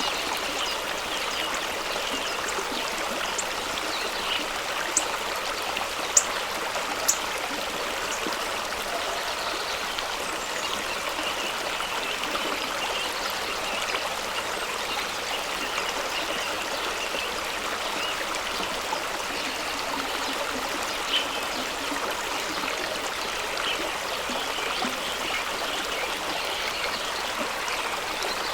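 Fast-running stream rushing over rocks, a steady wash of water noise. Three sharp splashes stand out at about five, six and seven seconds in.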